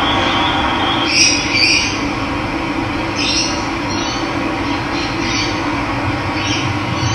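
Steady rush of running water, with a bird giving short calls every second or so above it.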